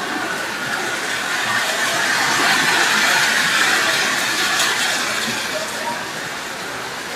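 Heavy rain falling: a dense, steady hiss that swells in the middle and eases toward the end.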